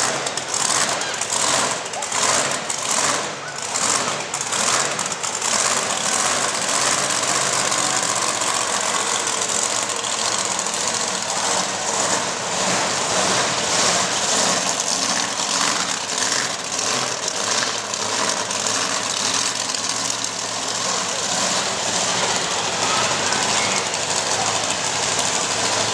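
Monster truck engine running loudly, pulsing quickly for the first few seconds and then running more steadily.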